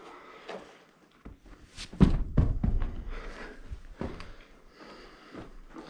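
Irregular footsteps and scuffs on a cave floor, with a heavy thud about two seconds in.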